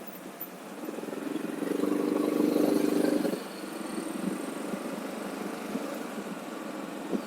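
Motorcycle engine running on the move, under a steady rush of wind noise. A louder, steady engine note swells up about a second and a half in and drops back about two seconds later.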